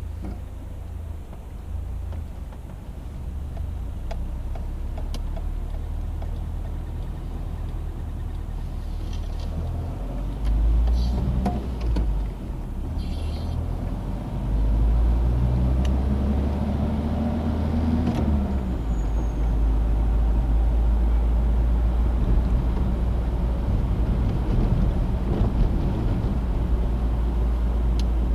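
A Citroen DS driving, with steady engine and road noise over a heavy low rumble that grows louder. The engine note rises and falls once about halfway through.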